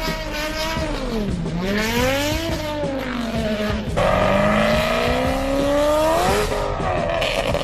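Lamborghini Aventador SVJ's V12 revving through an aftermarket exhaust. The pitch falls and rises several times, then changes abruptly about halfway and climbs in one long, slow rise.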